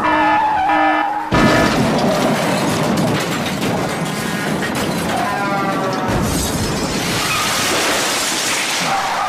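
Large plastic toy dump truck rolled over a tiled floor, its wheels giving a continuous rattling, scraping noise that turns harsher and hissier later on. Short electronic beeps and a warbling siren-like tone sound in the first second and again near the end.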